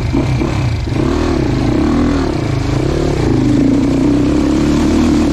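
Dirt bike engine revving up and down in quick repeated throttle blips over a steady low engine drone, settling into a steadier, higher note in the second half.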